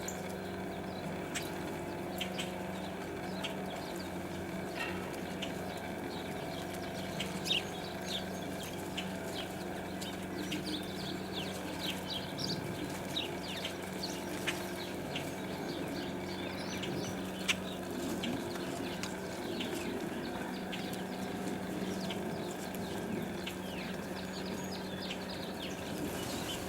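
Small birds chirping in short, scattered calls, over a steady low hum, with a couple of sharper clicks.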